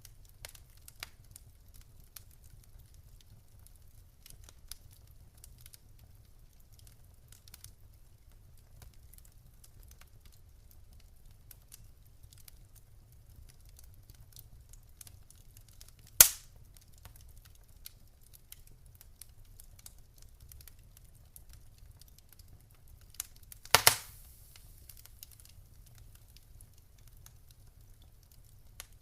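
Wood fire crackling: faint scattered ticks over a low rumble, broken by one sharp, loud pop a little past halfway and a quick cluster of loud pops later, followed by a brief hiss.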